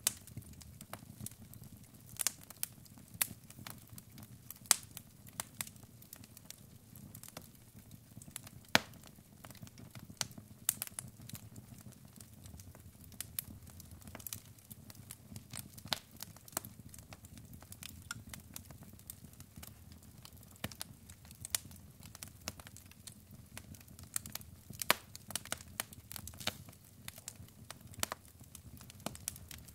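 Log fire burning in a fireplace, crackling with irregular sharp pops, a few of them loud, over a soft low steady rush of flame.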